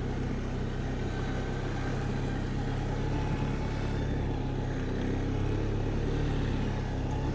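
Engine of a small off-road vehicle running steadily as it is driven along a slippery snow trail.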